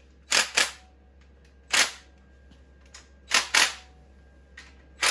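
A pneumatic impact wrench tightening bolts in short, sharp bursts, mostly in pairs, about every one and a half seconds.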